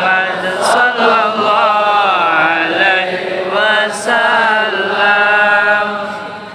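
Chanted Islamic devotional singing (sholawat) in Arabic, with long drawn-out, gliding melodic lines; the chant fades near the end.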